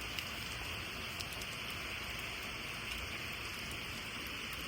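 Heavy rain pouring down in a steady hiss, with a few separate drops ticking now and then.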